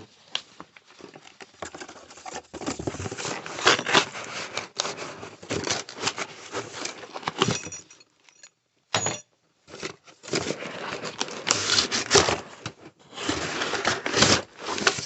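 Packaging being handled: irregular rustling, crinkling and small knocks as the drill and its papers are taken out of the box, with a brief pause a little past halfway.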